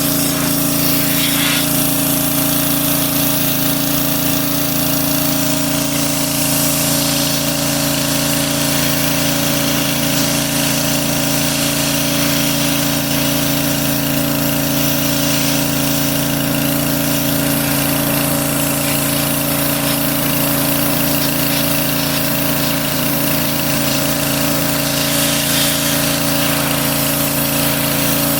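A motor-driven machine running steadily: a constant hum with a hiss over it, unchanging throughout.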